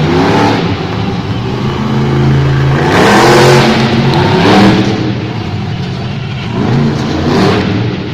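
Monster truck engine revving in repeated loud surges, the pitch rising and falling several times.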